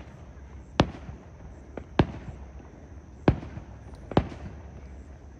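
Aerial fireworks bursting: four loud bangs spaced roughly a second apart, each with a short echoing tail, with a few fainter pops between them.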